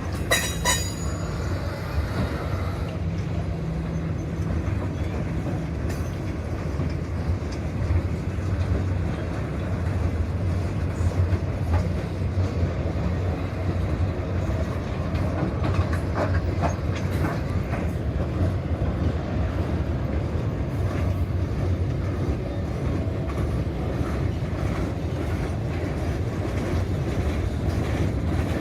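Freight train cars rolling past with a steady rumble and clicking wheels, and a brief high wheel squeal about half a second in.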